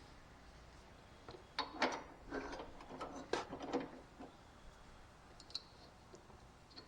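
A handful of short clinks and knocks of small metal hardware and tools being handled, clustered in the first half, then a couple of faint ticks.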